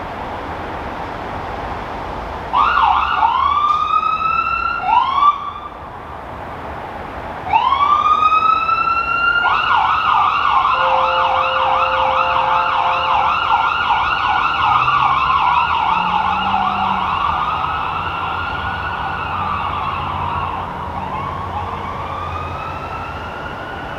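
Emergency vehicle siren: a few short rising whoops, a brief pause, then more whoops that switch to a fast yelp and then a slow rising-and-falling wail, easing off toward the end.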